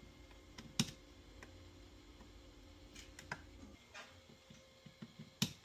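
Scattered sharp clicks and light taps, the two loudest about a second in and near the end, over a low steady hum that cuts off a little past halfway.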